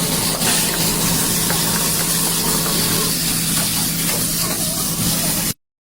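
Chicken sizzling in hot oil, a loud, steady hiss over a low hum. It cuts off abruptly about five and a half seconds in.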